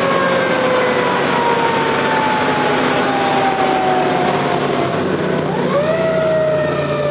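Fire engine's mechanical siren winding down slowly in pitch over about five seconds, then wound up again and coasting down near the end, over the truck's running engine.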